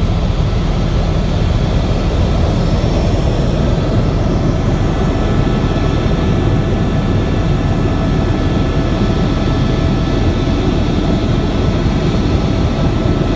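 Helicopter in flight: loud, steady engine and rotor noise with faint steady whines above it.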